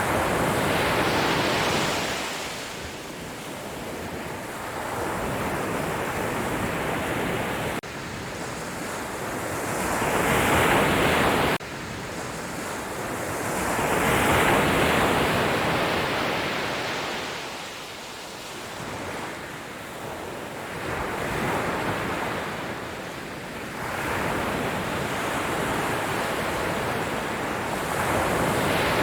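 Sea waves breaking and washing up on a beach, swelling and fading every few seconds, with a couple of abrupt jumps in level.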